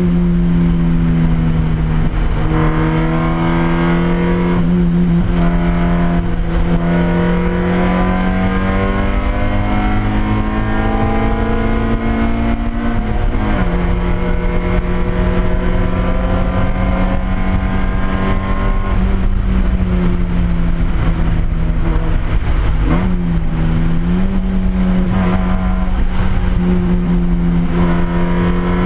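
Race car engine heard from inside the cockpit under racing load. It climbs slowly in pitch through long pulls, and the note drops or jumps sharply a few times at gear changes and lifts for corners.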